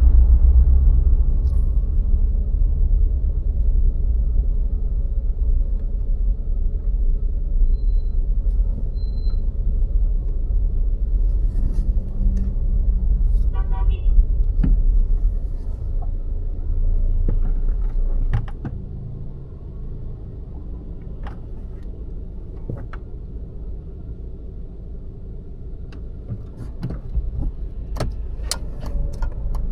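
VW Golf IV 1.6 on the road: steady engine and tyre rumble, which drops away sharply about eighteen seconds in. A short beeping sound comes about halfway through, and a run of sharp ticks near the end.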